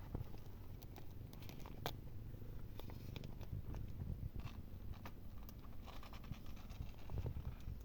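A cat purring with a low, steady rumble, with small clicks and rustles scattered over it.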